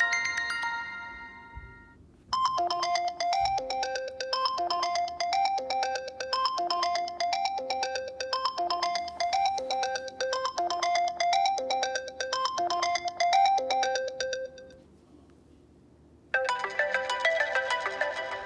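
iPhone ringtones from iOS 7 playing one after another. One tone dies away at the start. Then a melody of short, bright pitched notes repeats its phrase for about twelve seconds and stops, and a new, brighter ringtone starts near the end.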